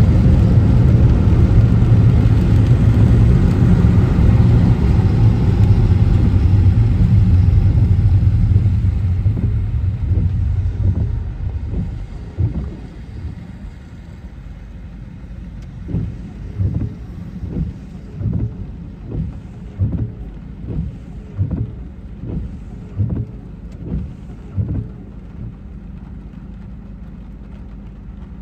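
Car driving on a wet road: a steady low rumble of tyres and engine that fades away over a few seconds as the car slows to a stop. Then a quieter stretch with soft, regular low thumps about every three-quarters of a second.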